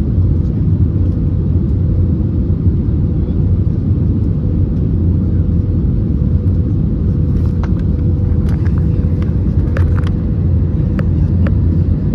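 Airliner cabin noise aboard an Airbus A321neo in flight: a steady low rumble with a constant hum, and a few light clicks or rattles in the second half.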